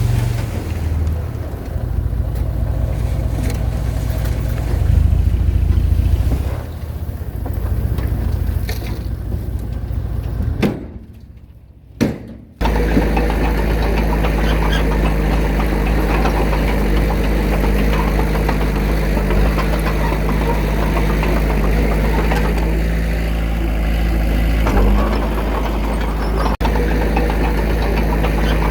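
Diesel engine of heavy earthmoving machinery running. It rises and falls unevenly at first, drops away for about two seconds a little before the middle, then carries on as a steady, even engine drone with a constant low hum.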